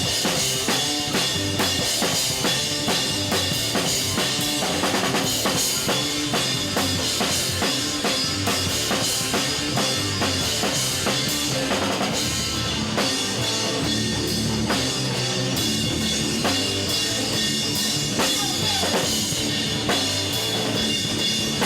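A rock band playing live, with the drum kit driving a steady beat of bass drum and snare hits over sustained instrument tones.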